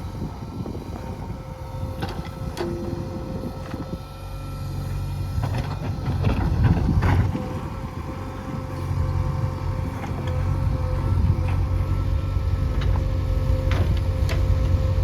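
Diesel engine of heavy earthmoving machinery running under load, growing louder about four seconds in and again about nine seconds in, with several short metallic clanks.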